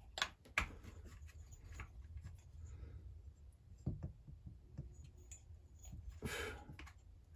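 Faint clicks and taps of hands handling a stripped Husqvarna 346XP chainsaw's crankshaft, rocking it to feel for play in its bearings, with a short rustle a little after six seconds.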